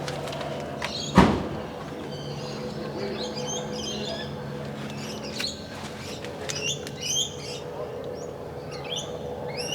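Small birds chirping repeatedly, with a single sharp knock about a second in, over a steady low hum.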